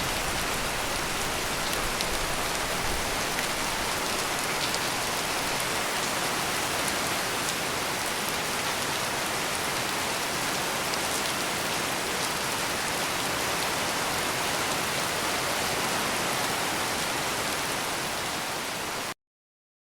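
Heavy rain falling steadily, a dense patter of drops with no thunder. It cuts off abruptly about a second before the end.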